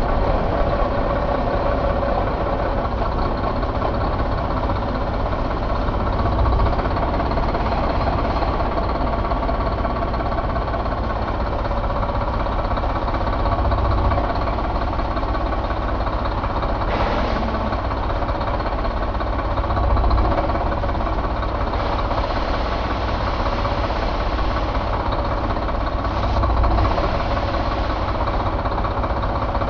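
2015 Mack MP7 inline-six diesel engine idling steadily, with slight swells in loudness every six or seven seconds.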